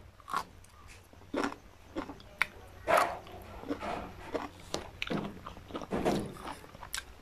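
A person biting and chewing a grilled long green chili (siling pangsinigang), heard close up as a string of short, irregular crunches and mouth clicks.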